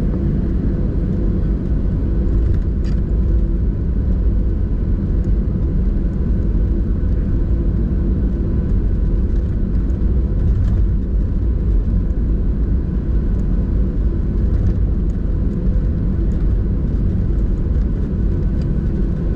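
Boeing 737-800's CFM56-7B engines running at idle, heard from inside the cabin as the aircraft taxis: a steady low rumble with a faint steady hum above it.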